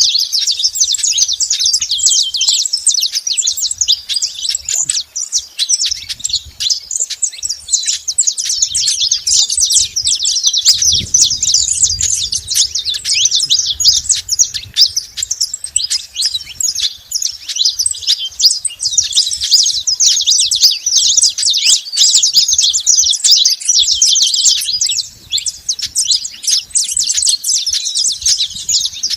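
Saffron finch singing: a dense, unbroken stream of rapid, high chirps and trills.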